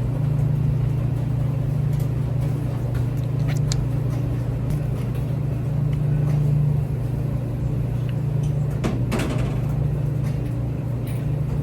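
Steady low mechanical hum, with a few faint clicks about a third of the way in and again near the end.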